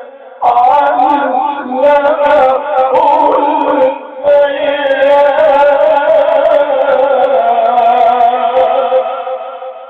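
A man reciting the Quran in the melodic, drawn-out tajweed style, holding long wavering notes over two phrases, with short breaks about half a second in and about four seconds in. The voice fades out near the end.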